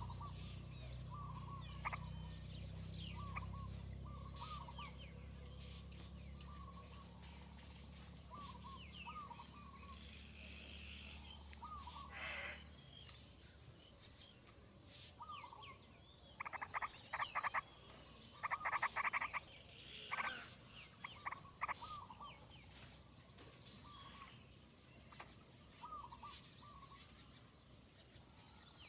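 Frogs calling: short croaks repeating every second or two, with two loud rattling runs of rapid pulses a little past halfway. A low rumble underneath stops about halfway.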